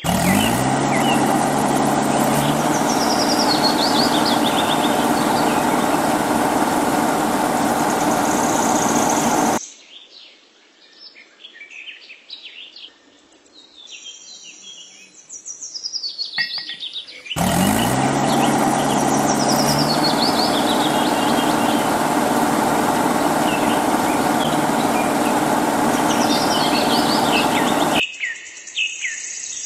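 A motor spins up with a rising pitch and then runs steadily for about nine seconds. It cuts off, birds chirp for several seconds, and the same spin-up and steady run come again. Bird chirps go on throughout.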